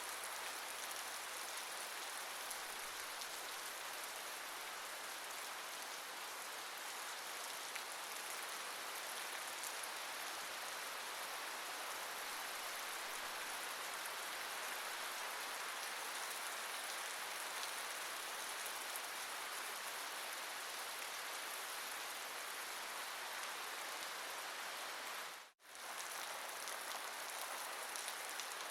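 Steady rain falling, an even hiss of drops on surfaces. It cuts out for a split second near the end, then carries on unchanged.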